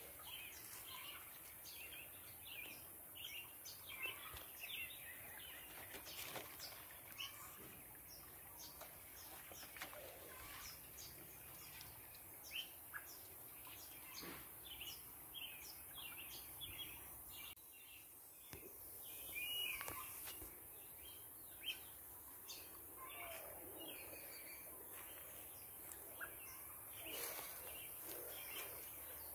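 Faint birds chirping on and off over a steady background hiss.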